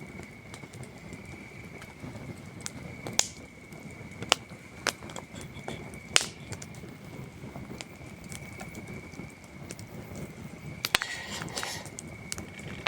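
Campfire wood crackling, with single sharp pops every second or so and a quick run of crackles near the end, over the steady high trill of crickets.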